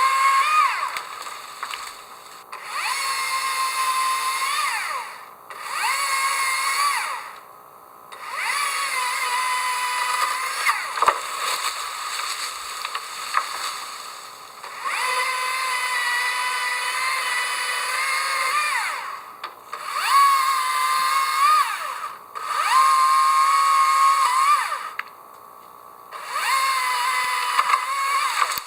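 A power tool's motor whining in repeated runs of two to four seconds. Each run spins up to a steady high pitch and winds down again, with short pauses between.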